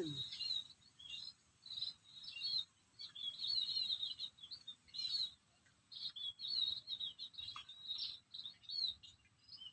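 Small birds chirping and twittering: short high calls in quick, irregular succession, with faster twittering runs about three and seven seconds in.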